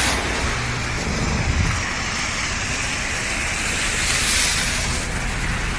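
Heavy hail falling, a dense steady hiss and clatter of hailstones striking the ground and surfaces.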